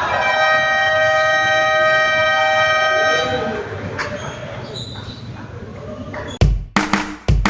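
Basketball arena end-of-period buzzer sounding one long steady tone for about three seconds over crowd noise in a large hall. Music with heavy beats cuts in near the end.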